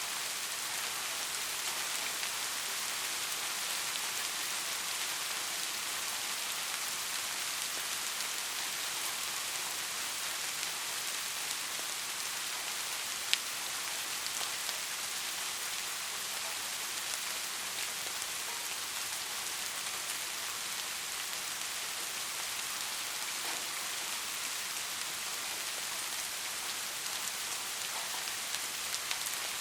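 Steady rain falling, an even hiss with scattered drop ticks. One sharper tick about halfway through.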